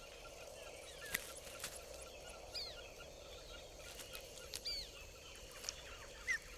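Birds calling with short, high, hooked notes at irregular intervals, with a few sharp clicks, over a soft steady outdoor hiss.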